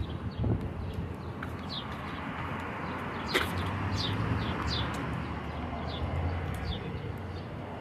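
A small bird chirping over and over in short, high, falling notes, about once or twice a second, over a steady low rumble of city traffic. A single sharp click sounds about three seconds in.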